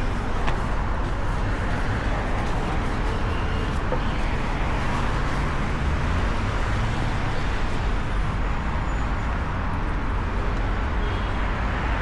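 Steady city street traffic: a continuous low rumble of passing cars and road noise.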